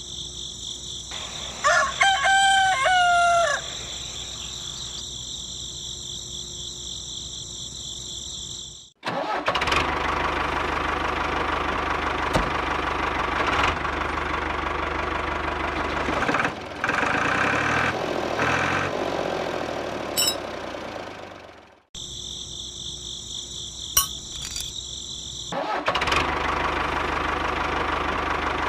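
A rooster crows once about two seconds in, over a steady high-pitched whine. Then the small motor of a homemade miniature tractor runs for about thirteen seconds and stops; after a few clicks it starts running again near the end.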